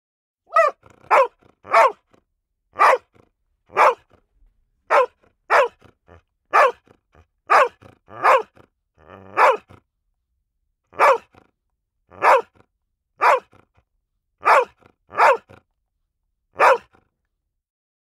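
A dog barking over and over in short, sharp barks, about seventeen in all, with a brief low growl just before one bark midway; the barking stops about a second before the end.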